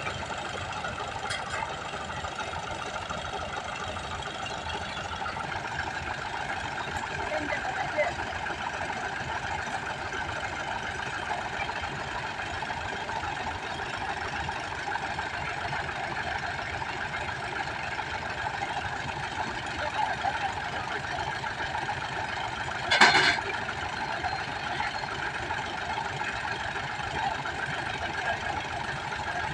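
Al-Ghazi tractor's diesel engine running steadily, with a brief loud sound cutting in once near the end.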